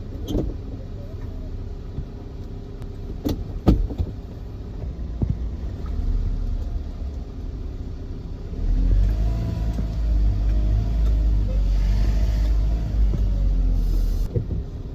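Test vehicle's engine and road rumble heard from inside the cab, with a few sharp knocks early on. About eight seconds in the engine gets louder as the vehicle accelerates, its pitch rising and then easing off, and it drops back near the end.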